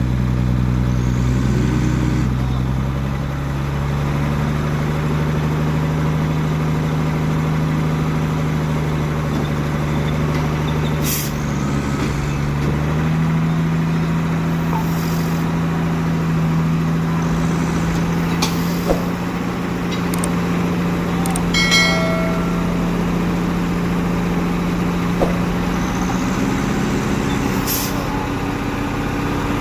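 Heavy tow trucks' diesel engines running under load during a recovery pull, engine speed stepping up about two seconds in and again about thirteen seconds in. Several short hisses of air cut in over the engines.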